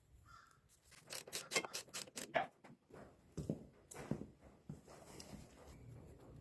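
Ratchet with a 5/8 spark-plug socket clicking in a quick run of about eight clicks while the spark plug is loosened. This is followed by a few dull knocks of tool handling.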